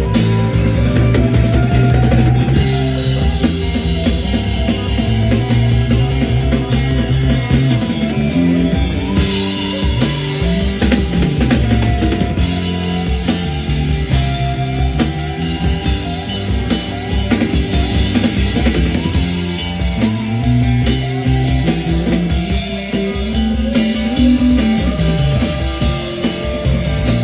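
Rock music played on guitar and drum kit, with some notes sliding up and down in pitch.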